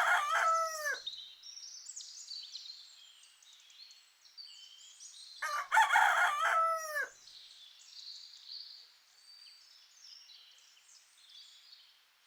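Rooster crowing twice: the first crow ends about a second in, and the second comes about five and a half seconds in. Small birds chirp faintly in the background throughout.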